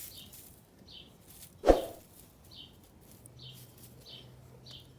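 A bird chirping, short high calls repeated every half second to a second, with one sharp knock about a second and a half in and a faint low hum in the second half.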